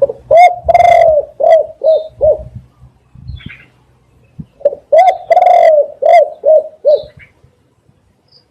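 Spotted dove cooing: two loud phrases, the second about four and a half seconds after the first, each a run of about six short coos with one longer drawn-out note near the start.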